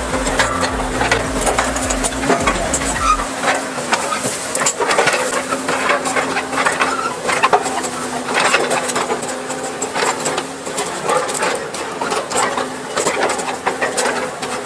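A machine's engine running steadily under heavy rattling and clanking, with a deep rumble that drops away about three seconds in.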